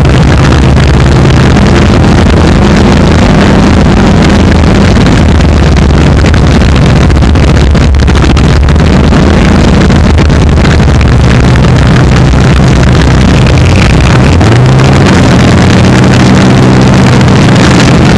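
Engines of a twin-engine Alfasud drag car running very loud, with a rise in pitch about fourteen seconds in.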